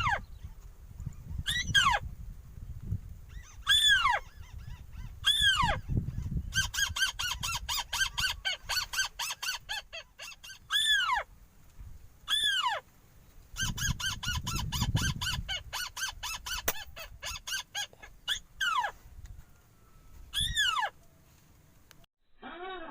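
A bird calling loudly and repeatedly: clear whistles that fall in pitch, one every second or two, broken by two long runs of rapid repeated notes. Wind rumbles on the microphone underneath.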